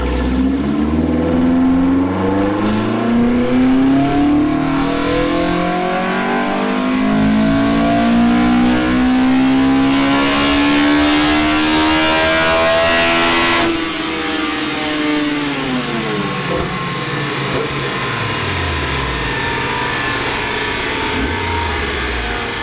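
Toyota 4A-GE four-cylinder on individual throttle bodies, with short intake runners and the VVT-i intake cam advanced 7 degrees, making a full-throttle chassis-dyno pull. Its note climbs steadily toward about 10,000 rpm for roughly fourteen seconds. Then the throttle snaps shut and the revs fall away as the rollers coast down.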